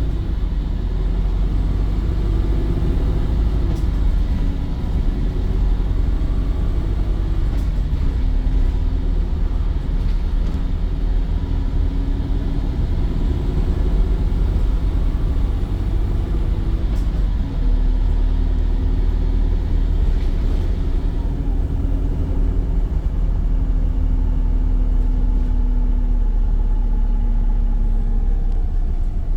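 Volvo B5 bus running along, a steady low rumble with a humming tone that drifts up and down in pitch as the bus speeds up and slows, and a few faint clicks.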